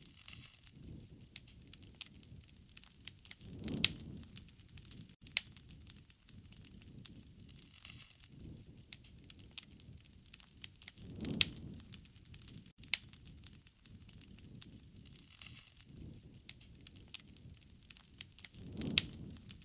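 Wood fire crackling, with many sharp pops and snaps over a low rush of flame that swells up about every seven and a half seconds.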